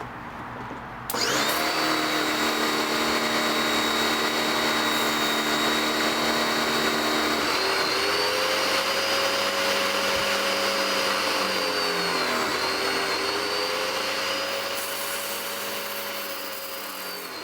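Black & Decker PW1700 electric pressure washer starting up suddenly and running with a steady motor whine. Its pitch shifts about halfway through and wavers briefly later, as the load on the pump changes.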